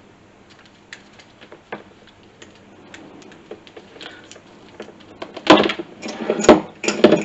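Small parts and a wiring kit being handled: scattered light clicks, then a burst of louder rustling and clattering in the last two seconds.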